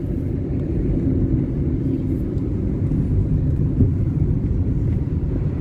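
Steady low rumble of engine and tyre road noise inside a moving car's cabin.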